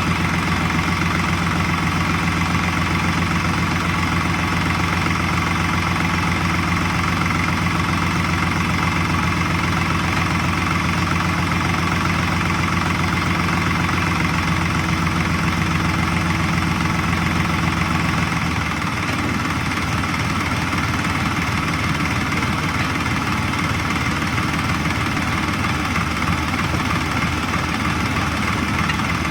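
Tractor engine running steadily at idle. About two-thirds of the way through, its deep note changes and it becomes slightly quieter.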